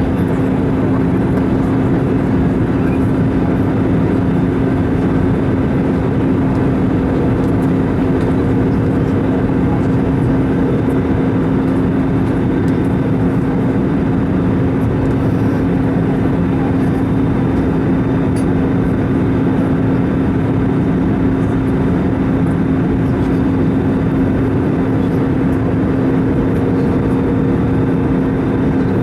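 Airbus A320 cabin noise in flight: the steady rush of engines and airflow, with a constant low hum.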